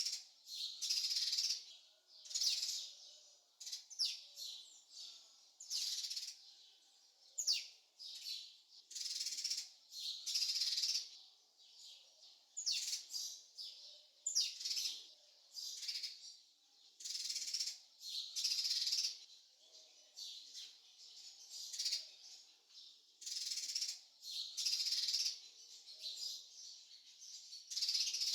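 Bird calls: short, high chirping bursts repeated roughly once a second or so, some sweeping quickly in pitch.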